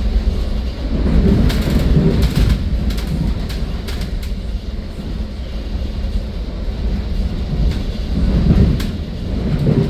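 Passenger train running, heard from inside the car: a loud, steady low rumble that swells now and then, with a few sharp clicks and knocks.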